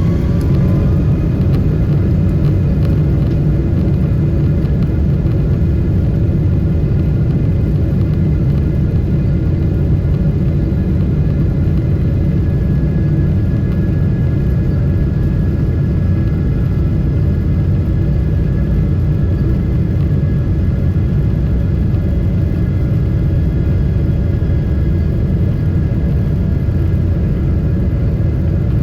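Boeing 777-300 airliner's engines and airflow heard from inside the cabin: a loud, steady rumble with a faint whine that rises in pitch during the first second.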